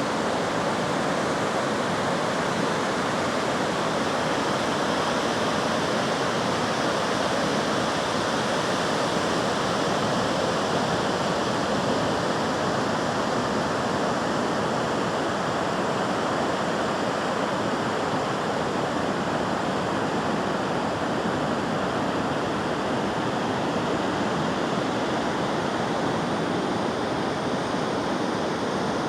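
Steady rushing water, like a waterfall or fast stream, an even unbroken noise without the rise and fall of waves.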